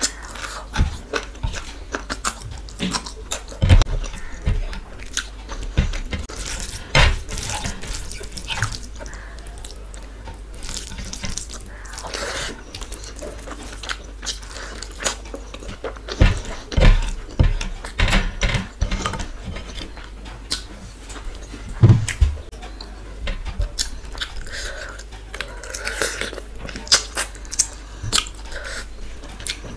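Close-miked eating: wet chewing and mouth sounds from handfuls of rice mixed with dal and curry, with irregular clicks and smacks and fingers squishing the soft rice.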